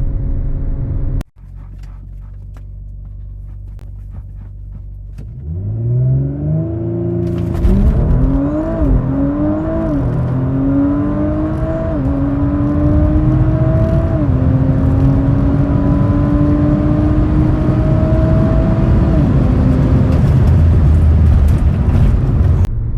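Tuned 2019 Audi RS5's twin-turbo V6 revs up against the brakes, then launches at full throttle. Its pitch climbs through each gear and drops back at several quick upshifts of the automatic gearbox. On this launch the car was pushing through the brakes while held for launch control, as the driver notes. The sound cuts off abruptly near the end.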